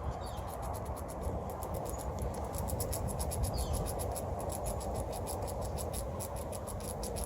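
A squirrel gnawing and chewing its food: quick, sharp crunching clicks several times a second, coming thicker after the first couple of seconds, over a steady background hiss.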